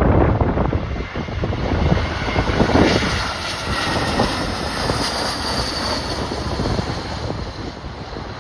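Jet airliner's engines passing, a roar with a faint turbine whine that slides slowly down in pitch, over strong wind buffeting the microphone.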